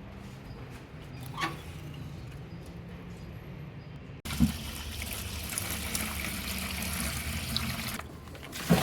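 Water running out of a gas water heater's drain valve through a hose into a bucket as the tank is flushed of sediment. The flow gets louder about four seconds in, and there is a knock near the end.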